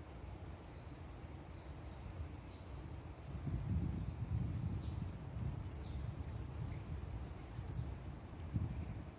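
Small birds giving short, high calls that slide downward, about one every second. Under them is a low rumble on the microphone that grows louder from about three seconds in.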